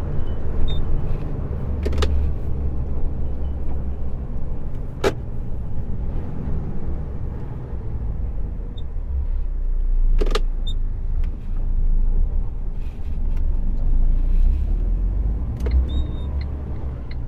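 Heavy truck's diesel engine and road noise heard inside the cab while driving, a low drone that swells and eases as the truck heads for the highway. A few sharp clicks or knocks come through, at about two, five and ten seconds in.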